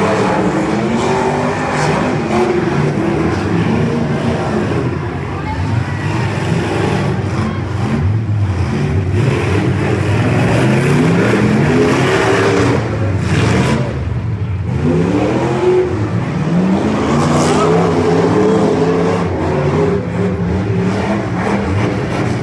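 Several demolition derby cars' engines running and revving together, their pitch climbing and falling again and again as the cars accelerate and back off.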